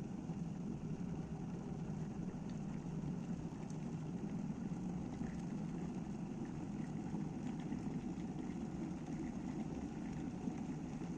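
Braun 2 kW electric kettle heating water close to the boil: a steady low rushing drone with faint small crackles, shortly before it switches itself off.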